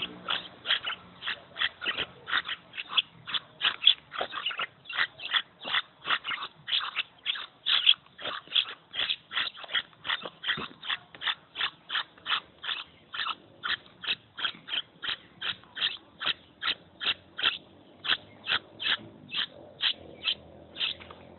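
Young maraba bird, a fledgling close to flying, calling over and over in short chirps, about three a second.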